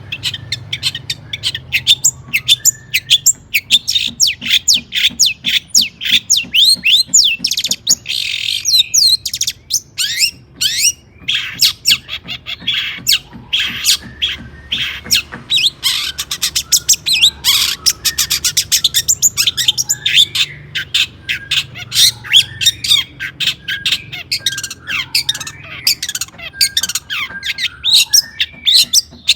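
Long-tailed shrike (cendet) in agitated, high-energy song: a fast, unbroken run of sharp, high chattering notes, many to the second, with only brief pauses.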